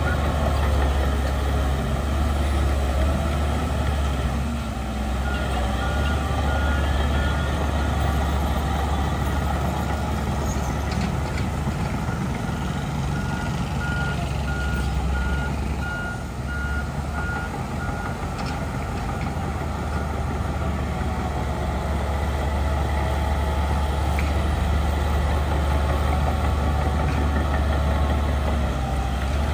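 Heavy diesel earthmoving machinery (bulldozer and dump truck) running steadily with a loud low engine hum, while a reversing alarm beeps in two spells, about five seconds in and again from about thirteen to seventeen seconds.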